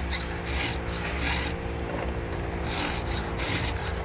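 Round chainsaw file rasping across the cutter teeth of a sawmill chain in short, even strokes, about two a second. The extra swipes across the top plate of a tooth clean up damage on its top edge.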